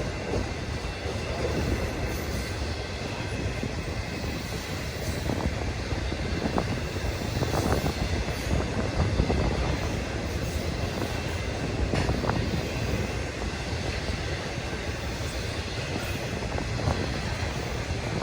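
Freight train cars rolling past, a steady rumble of wheels on rail with occasional sharp clicks from rail joints.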